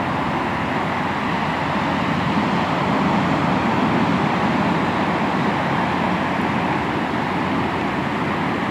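Sea waves washing onto the shore in a continuous rush of surf, swelling slightly in the middle and easing again.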